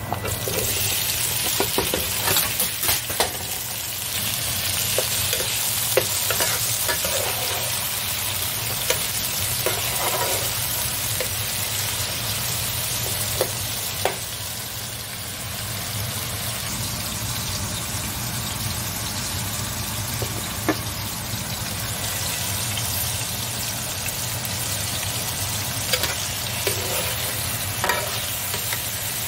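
Chopped tomatoes sizzling in hot oil with garlic in a square copper-coated pan; the sizzle jumps up at the start as they are tipped in. A metal spoon clinks and scrapes against the pan now and then as they are stirred.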